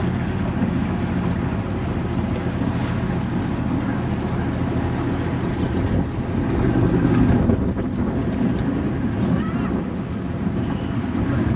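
Boat out on the water: a motor running steadily under wash and splashing water, with wind buffeting the microphone.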